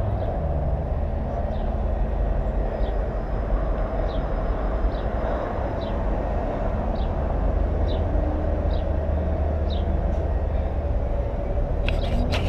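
Motorcycle engine running steadily under a haze of wind and road noise. A faint short high chirp repeats about once a second throughout.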